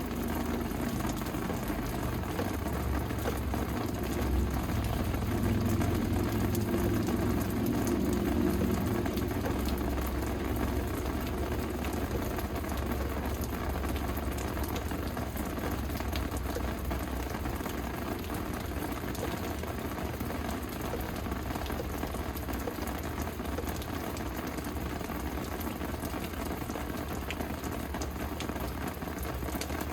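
Steady rain falling: a continuous hiss with scattered drop ticks, over a low rumble that swells for a few seconds near the start and then eases.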